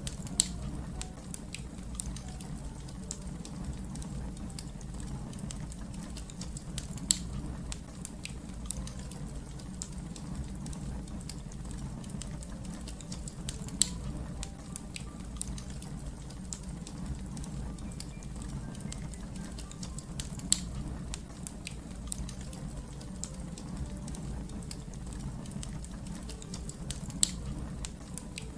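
Wood fire crackling: a steady low rumble of burning under constant small crackles, with a sharper, louder pop about every seven seconds.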